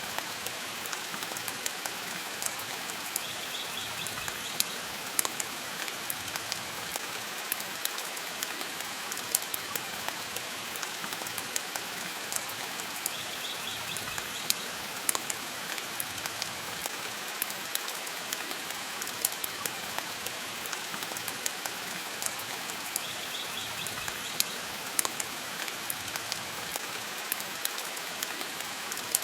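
Steady rain with many sharp, irregular crackles from a wood fire in a fireplace. A faint short high sound comes back three times, about ten seconds apart.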